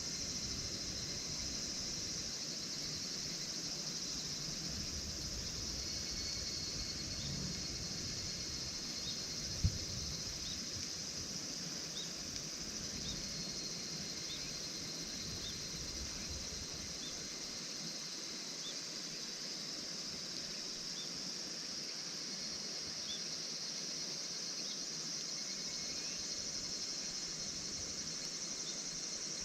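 Steady high-pitched chorus of insects, with faint short chirps every second or two and a single sharp knock about ten seconds in.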